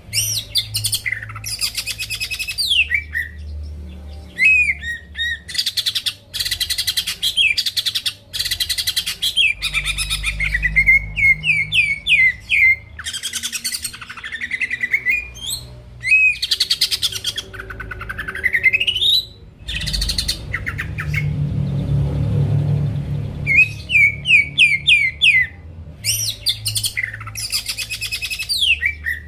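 Cucak ijo (green leafbird) singing in full: rapid, rattling trills alternating with sliding whistled notes that rise and fall, in bursts of a few seconds with short gaps between. About two-thirds of the way through, a low rumble sits under the song for several seconds.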